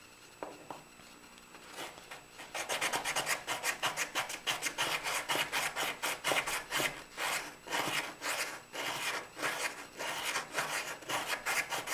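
80-grit sandpaper wrapped on a dowel, rubbed back and forth in quick, even strokes against the inside curve of a wooden cabinet pull to smooth away bandsaw marks. The strokes start about two seconds in.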